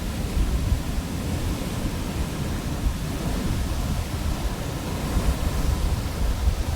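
Pacific Ocean surf washing onto the beach: a steady rushing noise with a deep low rumble.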